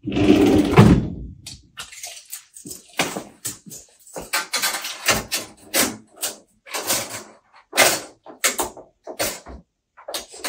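Handling noise: a loud low rumble in the first second and a half, then a string of short, irregular knocks and rattles, about two a second.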